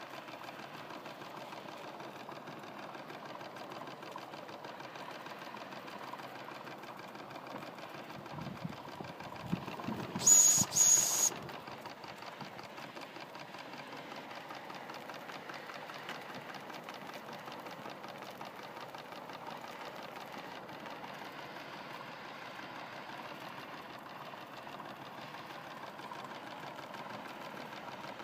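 Model D16 slide-valve steam engine running on steam from a Mamod SE3 boiler, with a fast, even ticking beat. About ten seconds in, two loud short hissing blasts cut across it.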